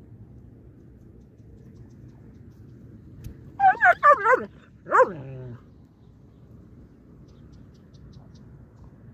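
Dog yelping: a quick run of three or four high yelps, then a single longer yelp that falls in pitch.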